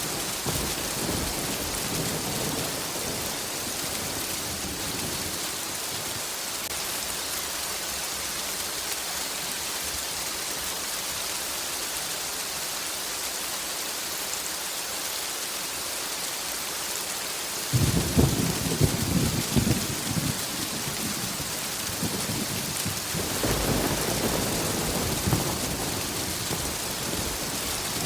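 Steady rain falling, with thunder: a low rumble dying away over the first few seconds, a sudden close thunderclap rolling on for a few seconds about two-thirds of the way through, and another rumble near the end.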